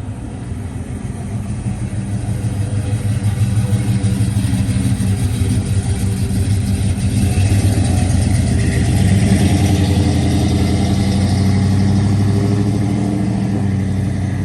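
Car engine running at low revs with a deep exhaust note, getting louder over the first few seconds and then holding steady.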